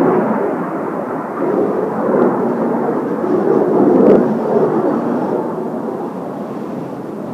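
Jet noise from a formation of Kawasaki T-4 jet trainers passing overhead. It swells about four seconds in, then fades steadily as the aircraft move away.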